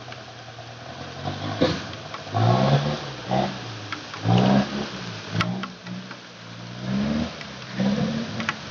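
Dump truck's diesel engine revving up and dropping back again and again, about half a dozen surges, as it works its way through a deep-mud, potholed road. A few sharp knocks and clatters come through, about two seconds and five seconds in.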